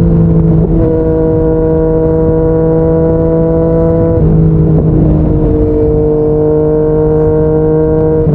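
Yamaha MT-09's three-cylinder engine through a Yoshimura R55 slip-on exhaust, running at steady highway speed with a rush of wind and road noise. The engine note holds a steady pitch, with small shifts in pitch about a second in and again around four to five seconds in.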